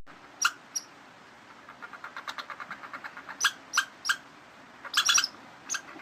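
Short, high squeaks from a small animal: a few single squeaks, a quick run of about eight a second, then single squeaks and a close cluster near the end.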